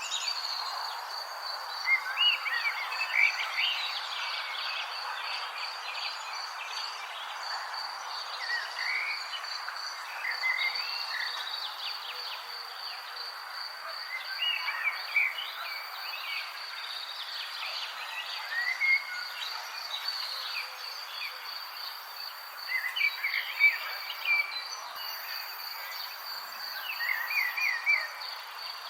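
An insect trilling steadily at a high pitch over a soft hiss, with short bird chirps breaking in every few seconds.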